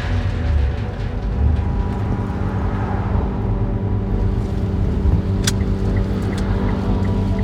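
Car engine running at a steady idle, with a sharp click about five and a half seconds in followed by a quick regular ticking, about three ticks a second.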